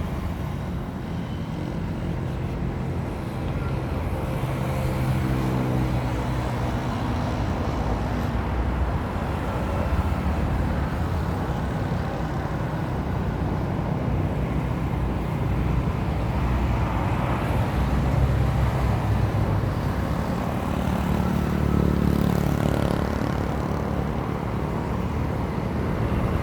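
A motor vehicle's engine running steadily with a low hum and road or wind noise.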